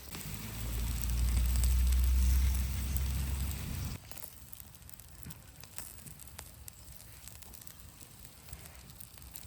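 Campfire crackling in scattered sharp clicks, under a low rumble that fills the first four seconds and stops abruptly.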